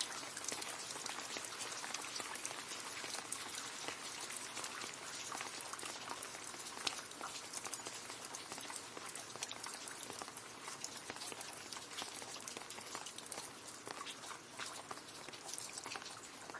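Steady rain falling into a puddle, a dense pattering of many small drop splashes.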